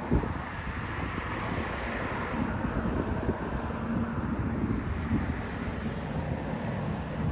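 Low, steady rumble of a train at the station, mixed with wind buffeting the microphone.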